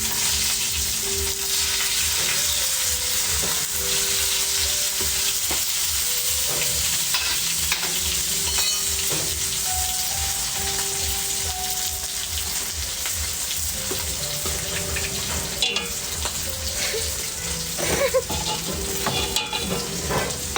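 Food sizzling as it fries in oil in a pan over a wood fire, with a few sharp clicks near the end.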